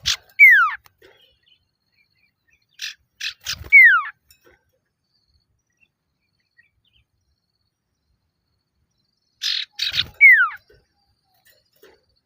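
Male common iora calling: three phrases a few seconds apart, each one or two harsh rasping notes followed by a clear whistle sliding down in pitch. This is the male's call to a rival.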